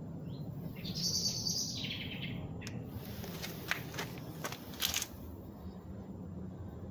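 A bird calling once for about a second, stepping down in pitch, over a steady low outdoor rumble, followed by several sharp clicks.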